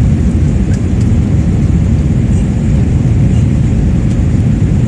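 Airbus A320's jet engines at high thrust heard from inside the cabin: a loud, steady low rumble.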